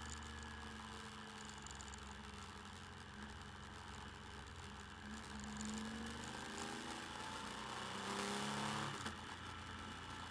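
Motorcycle engine running at road speed under the camera's wind noise; its pitch climbs steadily as the bike accelerates, loudest about eight to nine seconds in, then falls away suddenly.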